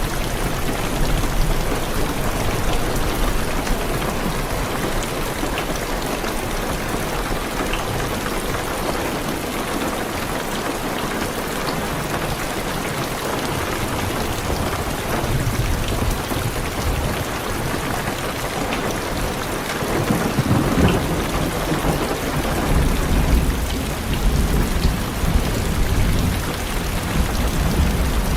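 Heavy rain falling steadily on a car's roof and windows, with low rolling thunder that rumbles briefly at the start and builds again over the second half.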